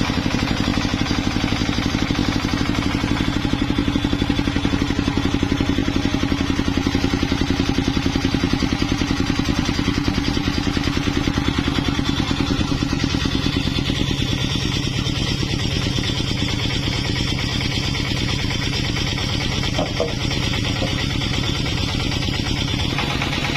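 An engine running steadily at a constant speed with a fast, even pulse. The upper part of the sound thins a little about halfway through.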